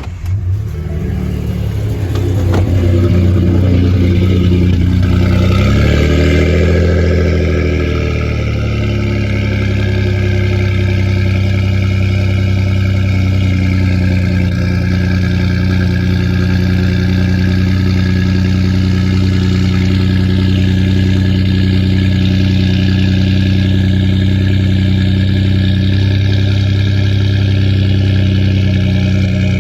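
2012 Ford F-150's 3.5 L twin-turbo EcoBoost V6, on Garrett Powermax turbos with a 3-inch MBRP cat-back exhaust and the resonator deleted, firing up from a cold start. It catches at once and runs at a raised idle. Its pitch sways up and down about six to eight seconds in, then holds a steady idle.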